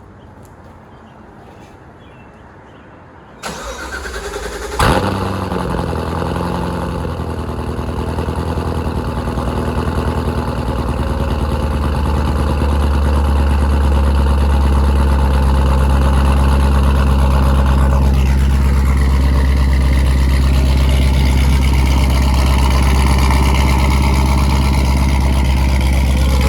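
Cold start of a 2016 Corvette Z06's supercharged 6.2-litre V8, breathing through catless headers, an X-pipe and the stock muffler, after three days sitting. It is quiet for a few seconds. Then the starter cranks briefly and the engine catches with a sharp jump in loudness about five seconds in, and settles into a loud, steady idle.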